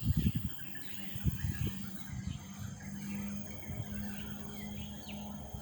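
Outdoor ambience of birds chirping and insects, over a steady low hum, with several low thumps in the first two seconds.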